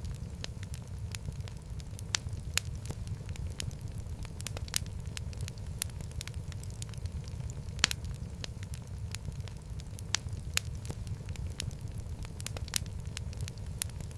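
Wood fire crackling in a fireplace: a steady low rumble of flame with irregular sharp snaps and pops, a few of them louder.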